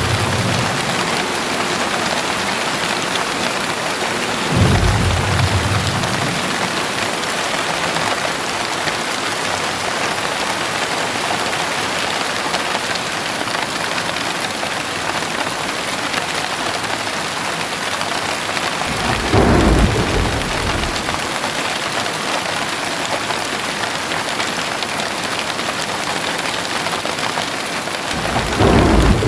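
Heavy rain falling steadily, with three short rumbles of thunder: one about five seconds in, one a little past the middle, and one at the very end.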